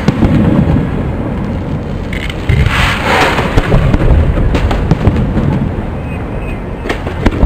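Aerial firework shells bursting in a display: deep rumbling booms, a loud burst about two and a half seconds in followed by crackling, and another sharp bang near the end.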